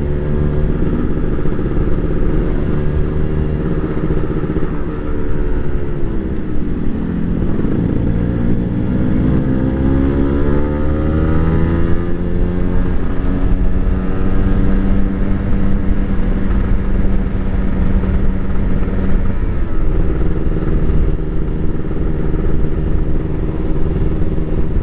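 Motorcycle engine running under way, its pitch dropping about five seconds in, then climbing steadily as it speeds up again and holding fairly even after that.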